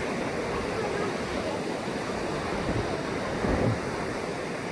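Ocean surf breaking steadily on the shore, with wind blowing across the microphone.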